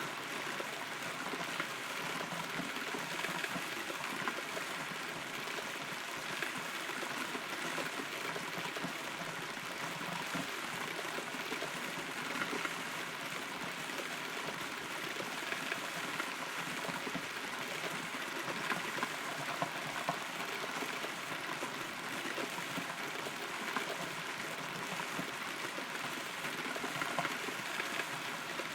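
Steady rain heard from inside a hollow, rotten tree trunk, with a dense patter of drops falling on the wood and leaves.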